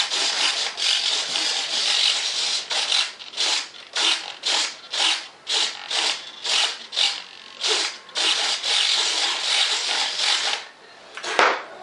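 Sanding by hand in uneven back-and-forth strokes, a rasping rub about once or twice a second, running on unbroken for a couple of seconds later on and ending with a short sharp scrape.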